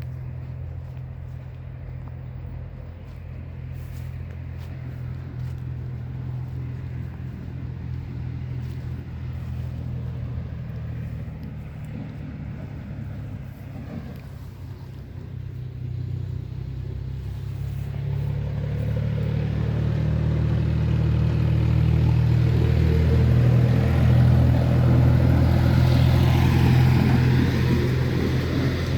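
A motor vehicle's engine running with a steady low hum, growing louder from about halfway through as it comes close.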